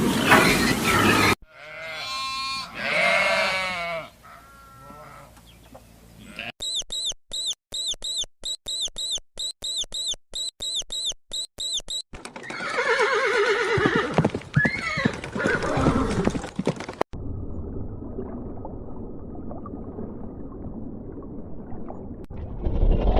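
A sequence of different animal calls cut one after another: pitched, drawn-out calls, then a rapid run of about two high chirps a second, then more loud calls and a stretch of low steady noise.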